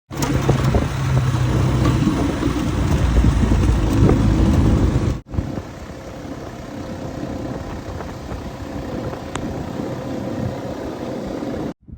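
A motor vehicle's engine running, heard in two cut-together stretches: louder with a steady low hum for about five seconds, then quieter and more even for the rest.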